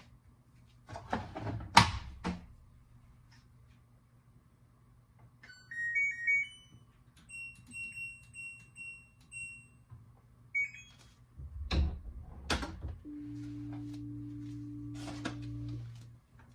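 Kitchen clatter, then a run of short electronic beeps from an appliance's keypad, two knocks, and a steady appliance hum for about three seconds that cuts off suddenly near the end.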